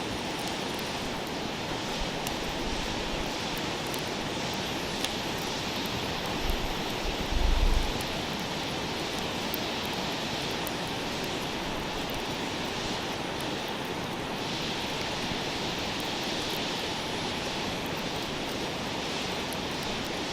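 Wood campfire crackling with scattered small pops over a steady hiss, with a brief low rumble about seven seconds in.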